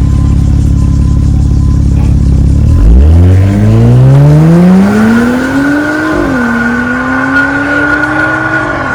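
Porsche Cayenne Coupe's EA839 twin-turbo V6 through an MS-R valved cat-back exhaust. It runs with a loud, deep, steady drone, then accelerates hard from about three seconds in. The pitch climbs, dips briefly at an upshift around six seconds, climbs again and falls away as it backs off near the end.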